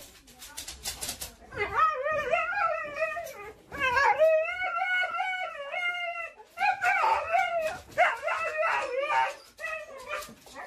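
A husky howling: two long howls that waver up and down in pitch, then a run of shorter, broken howls.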